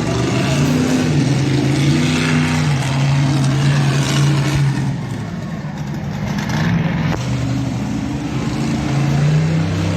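Monster truck engine running hard under revs, easing off about five seconds in and building again toward the end.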